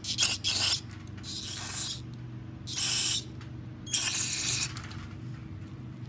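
Several short hissing spray bursts cleaning out the carburetor's inlet needle seat bore to clear the remnants of the old seat, over a steady low hum.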